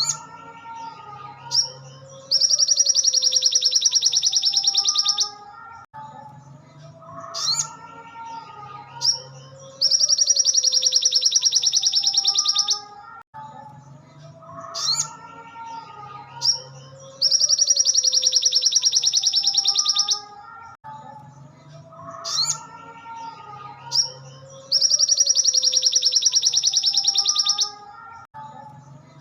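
Looped song of a sogon (sogok ontong) songbird, used as a masteran training recording. Each phrase has sharp high chirps and warbled notes, then a loud, very rapid buzzy trill of about three seconds. The identical phrase repeats about every seven and a half seconds, four trills in all.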